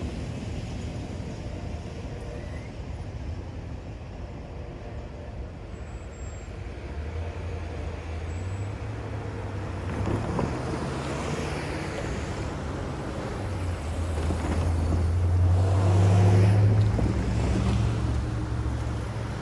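Road traffic at a railroad grade crossing: cars and a heavier vehicle drive past with engine hum and tyre noise. The sound builds to its loudest near the end, with two vehicles passing close.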